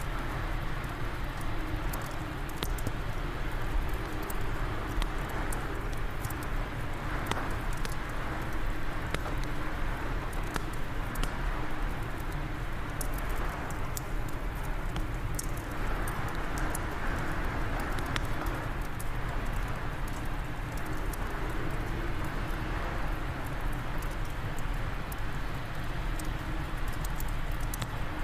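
Wood fire in a fireplace crackling, with scattered sharp pops and ticks over a steady rush of wind that swells now and then.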